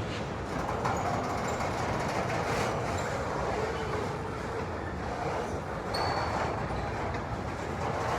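Local freight train rolling by: a steady rumble and hiss of steel wheels on the rails.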